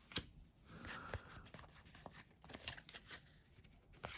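Faint rustling and light clicks of Pokémon trading cards being handled and slid past one another.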